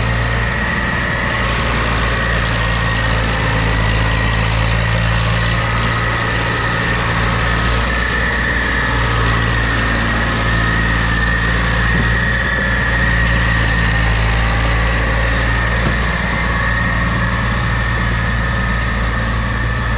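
John Deere tractor's diesel engine running steadily at a constant speed: an even low drone with a thin steady whine above it.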